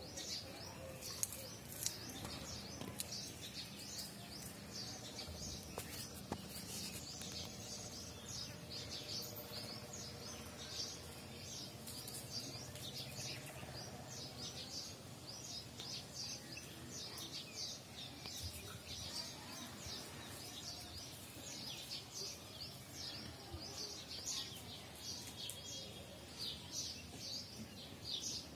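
Small birds chirping steadily in the background, many short high notes repeating throughout, with a couple of sharp clicks a second or two in.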